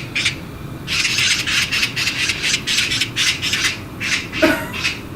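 Magpie chattering: a run of harsh, rasping calls, about three a second.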